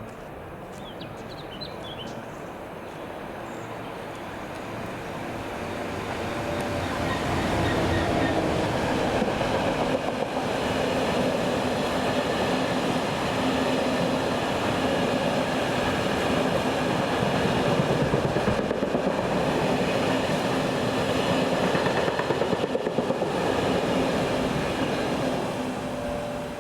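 Freight train passing, growing louder over the first several seconds as it approaches, with a steady engine hum under the noise of the wagons running on the rails. Regular clicks of wheels over the rail joints come near the end, before it fades.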